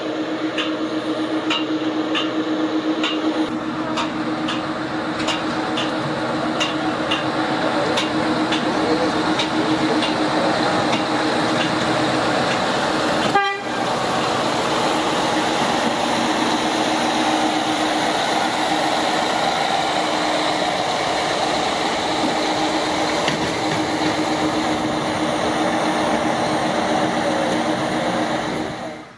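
Train passing on the main line: a loud, steady rumble of wheels on the track with a steady low tone. For the first half it carries regular clicks, about two to three a second, from wheels running over rail joints. A brief dropout comes about halfway through.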